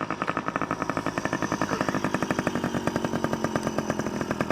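Small dirt bike engine running at a steady speed, a rapid, even putter of exhaust pulses.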